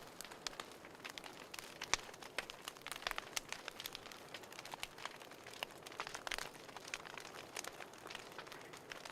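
Fireplace fire crackling: a soft hiss with many irregular sharp pops and snaps, a few louder than the rest.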